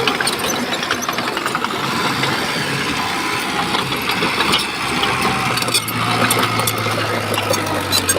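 Diesel engine of heavy earthmoving machinery running steadily, with scattered sharp clicks and clatters over it, thickest in the second half.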